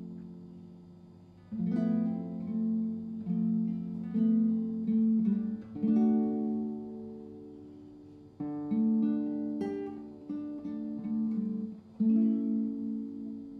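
Acoustic guitar music: strummed and plucked chords, each phrase starting sharply and left to ring and fade before the next.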